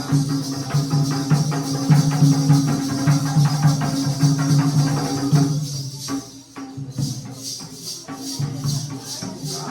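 Instrumental passage of Jakhadi folk music: held low tones over regular drum beats with a shaken, jingling percussion. About six seconds in the music thins briefly, then a quick, even metallic jingle carries the beat.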